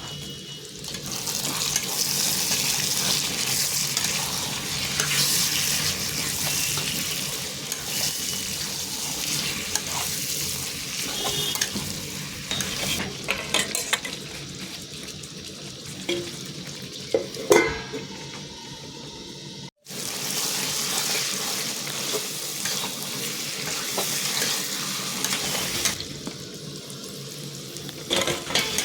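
Chicken sizzling as it fries in a pan, with the scrape and knock of stirring. The sound cuts out for an instant about two-thirds of the way through.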